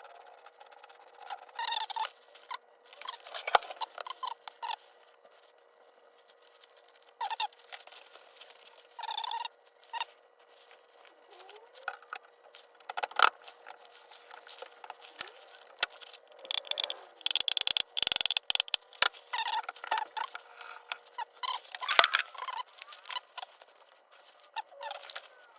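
Irregular light clicks and knocks of Honda CR125 gearbox parts being handled and fitted into the crankcase, with a short dense rattle about two-thirds through.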